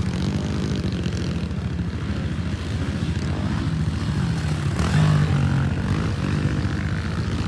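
Pit bike engines running on a dirt track, with the revs rising and falling and loudest about five seconds in.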